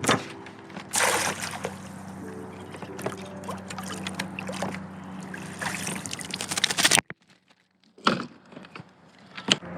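Water sloshing and splashing around a kayak, over a steady low hum. The sound cuts off abruptly about seven seconds in, followed by a few short knocks.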